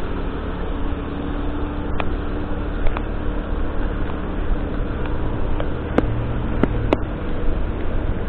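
A vehicle driving through city streets in rain: steady engine and road noise, with a few sharp clicks about six to seven seconds in.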